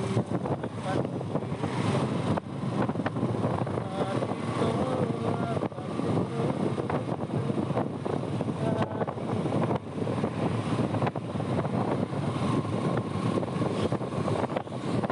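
Motorbike engine running while riding through city traffic, a continuous dense roar with wind buffeting the microphone.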